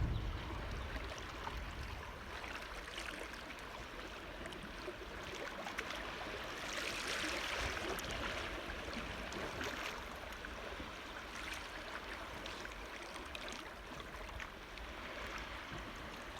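Water lapping and trickling, with a louder rush of water noise about seven seconds in and a few faint clicks.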